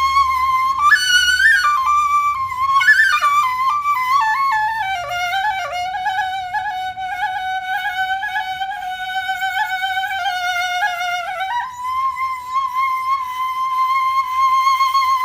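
Background music: a flute-like wind instrument playing a slow melody of long held notes, with a quick run early on, dropping to a lower held note for several seconds and rising back up about three quarters of the way through.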